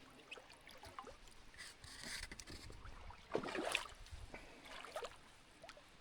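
Faint water sloshing and splashing, with small irregular splashes and one louder splash about three and a half seconds in.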